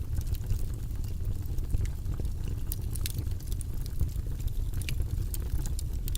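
Steady low, rumbling white-noise track for studying, with scattered faint clicks on top at irregular moments.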